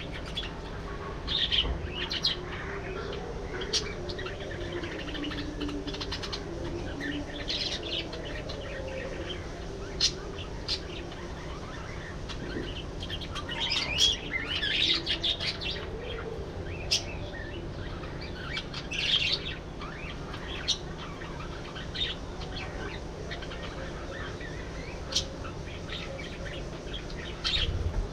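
A flock of budgerigars chirping and chattering, with short sharp calls scattered throughout, busiest about halfway through, over some lower warbling and a steady low background noise.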